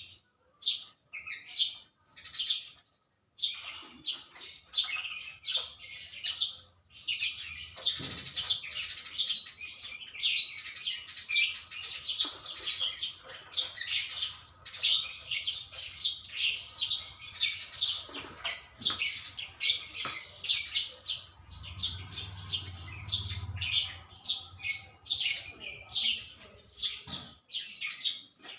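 Small birds chirping: many short, high chirps in quick succession, with a brief pause about three seconds in.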